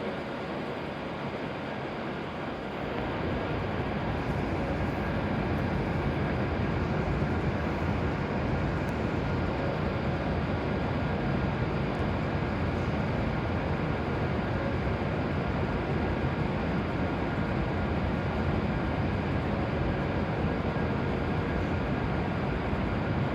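E7 series Shinkansen standing at the platform, its onboard equipment running with a steady hum and rumble. It gets louder about three seconds in.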